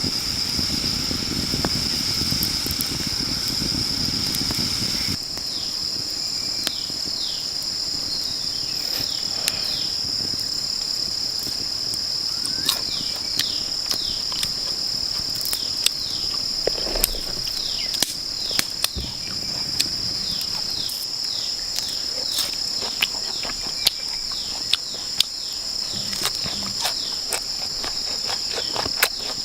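A steady, high-pitched chorus of rainforest insects. A low rumbling noise underneath stops suddenly about five seconds in. Short falling chirps come and go, and from the middle on there are sharp clicks or knocks about once a second.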